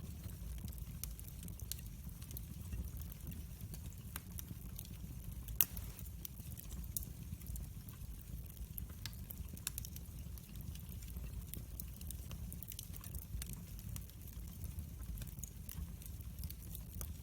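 Wood fire crackling in a fireplace: a steady low rumble of flames with scattered sharp crackles and pops, one louder pop about five and a half seconds in.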